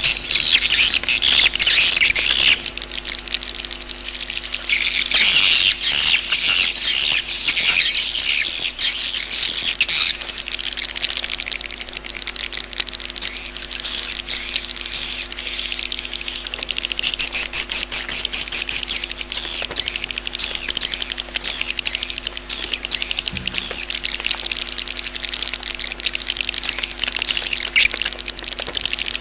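Swiftlet calls: dense, shrill chirping and twittering, with a fast run of even clicking chirps about two-thirds of the way through, over a steady low hum.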